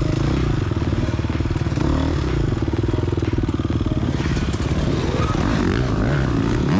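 Gas Gas EX250F's 250 cc single-cylinder four-stroke engine running hard under load, its pitch shifting as the throttle opens and closes, with a rising rev near the end.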